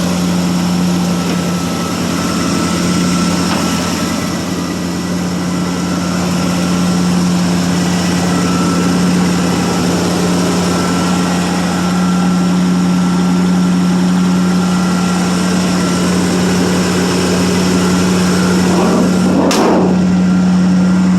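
1985 Chevrolet C10's original 305 small-block V8 idling steadily, still on its fast idle after a cold start.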